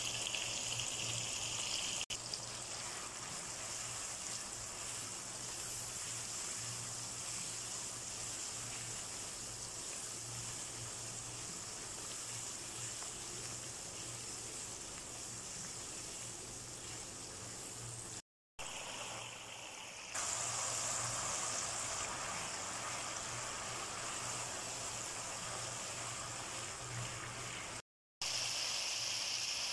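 Onion-tomato masala sizzling as it fries in oil in a wok: a steady hiss with a low hum underneath. It drops out briefly about two-thirds of the way through and again near the end.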